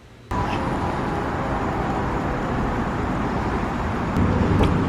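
Steady road-vehicle and traffic noise, cutting in abruptly just after the start and growing a little louder about four seconds in.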